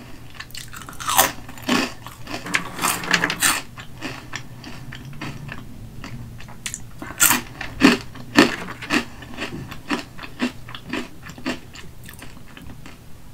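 Crunchy hot Cheetos being bitten and chewed close to the microphone, one at a time: a run of sharp, crisp crunches, loudest in clusters about a second in, around three seconds in and between seven and nine seconds in, with softer chewing between.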